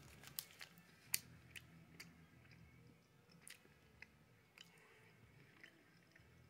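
Faint chewing of a coconut confection: soft, irregular mouth clicks, a few to the second and then sparser.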